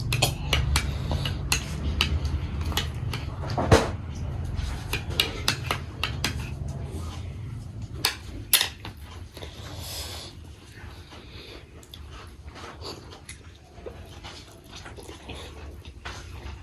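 Spoon clinking and scraping against a plate: many short sharp clicks, busiest in the first half, over a low hum that fades about halfway through.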